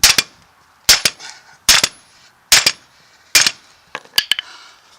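Hammer blows on steel, about one a second, each landing as a quick double strike with a short metallic ring, driving a U-joint bearing cap out of a truck drive-shaft yoke. A few lighter, quicker taps near the end.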